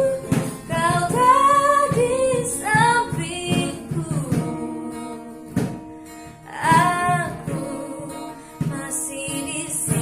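A woman singing a cover song to acoustic guitar accompaniment, in sung phrases with a pause in the voice midway while the guitar keeps strumming.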